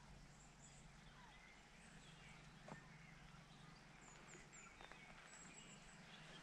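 Near silence with faint birdsong: short, high chirps scattered through, and a single soft click about two and a half seconds in.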